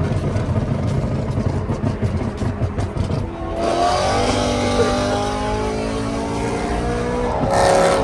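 Car engine run hard: a low rumble that jumps about three and a half seconds in to a loud rush with several held engine tones at high revs, with a brief sharper burst near the end.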